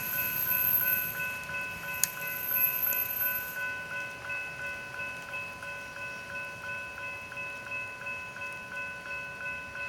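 Railroad grade-crossing warning bell ringing steadily at about two strokes a second, slowly fading.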